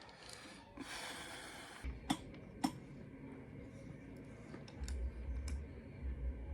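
A breathy hiss, then two sharp clicks about half a second apart, then low rumbling knocks near the end: handling and tool noises at work on a motocross wheel.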